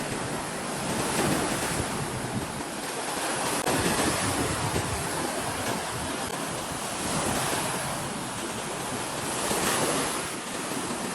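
Small lake waves washing onto the shore, a steady rush that swells and eases every few seconds, with wind buffeting the microphone.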